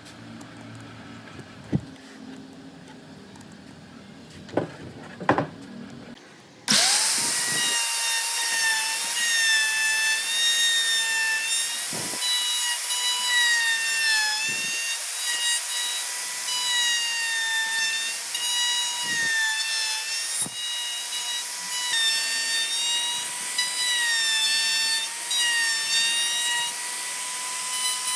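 A few knocks, then about seven seconds in a high-pitched electric power tool starts and runs on wood, its whine dipping in pitch now and then as it bites into the work.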